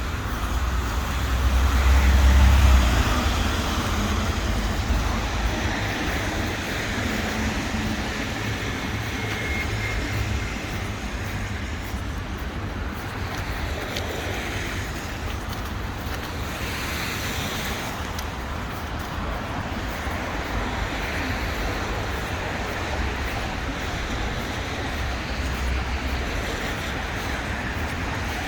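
City street traffic noise, a steady hum of passing cars, with one vehicle passing loudest about two seconds in.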